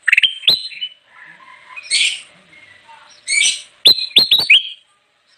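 Kutilang emas, a bulbul, singing vigorously: a few sharp falling notes, harsh scratchy phrases, then a quick run of four sharp notes.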